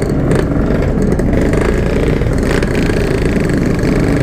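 Yamaha RX-King 135cc two-stroke single-cylinder engine running steadily as the motorcycle is ridden, heard from the rider's mic.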